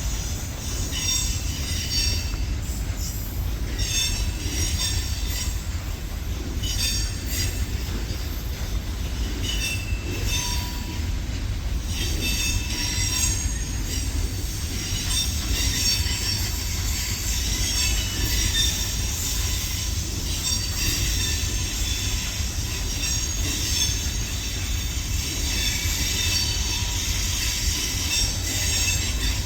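Train running on the track, a steady low rumble under high, shifting metallic squeals from the wheels against the rails.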